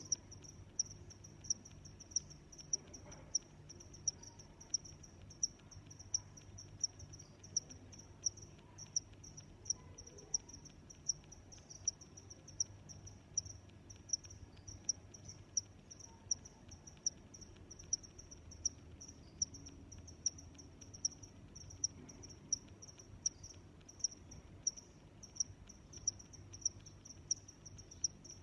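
A cricket chirping in short, high-pitched chirps at an even pace, a little more than one a second, over a faint low hum.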